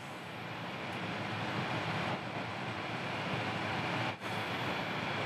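Steady running noise of a local electric train, heard from inside the front of the car as it rolls into a station platform, with a brief drop in level about four seconds in.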